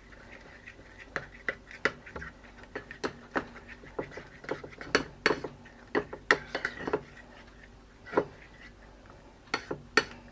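A utensil stirring a thick flour-and-water batter in a bowl to work out the lumps: irregular soft taps and scrapes against the bowl, a few a second.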